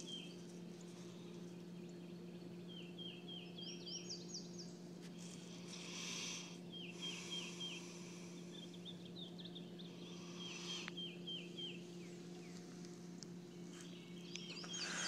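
A songbird singing short runs of four or five quick, clipped notes, repeated several times, over a faint steady low hum.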